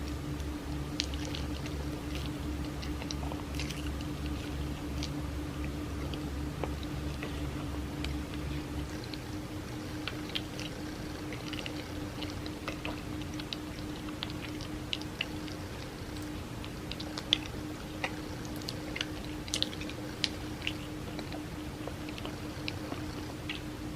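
Close-up chewing of cake: soft mouth sounds with many small sharp clicks and smacks. Underneath runs a steady electrical hum, and a lower pulsing hum stops about nine seconds in.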